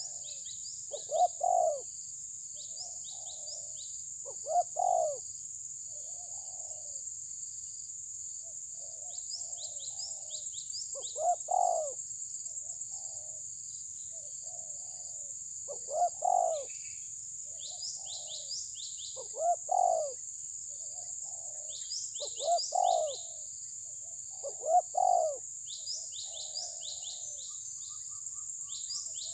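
A bird cooing: short low calls, each under a second, repeated every few seconds, with smaller birds chirping in quick high notes and a steady high-pitched hiss.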